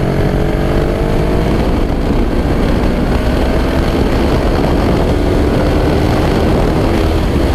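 Yamaha R3's 321 cc twin-cylinder engine through a full Akrapovic exhaust, under way: its note climbs slowly for the first few seconds as the bike gains speed, then holds steady, over a constant rush of wind.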